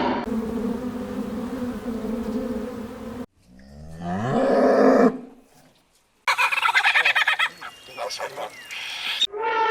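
Several different animal calls cut one after another. First a steady, low pitched call for about three seconds, then a call that rises in pitch, then a fast run of chattering calls, and a new pitched call starts near the end.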